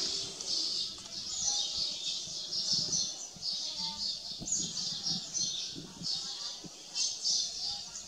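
Small birds chirping: a steady run of short, high-pitched chirps, about two a second.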